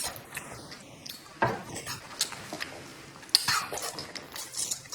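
Utensils clicking and clinking against dishes, with a few sharp taps scattered through, the strongest about a third of the way in and again past halfway.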